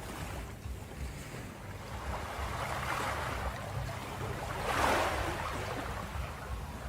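Ocean waves breaking and washing up a beach over a steady low surf rumble, one wave surging in loudest about five seconds in and then drawing back.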